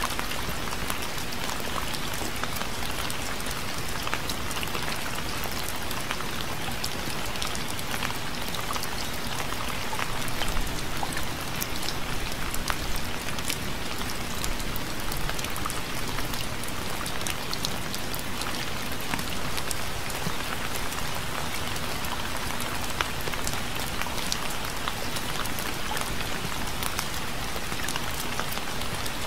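Steady rain, with many separate drops ticking sharply on a surface over an even hiss of rainfall.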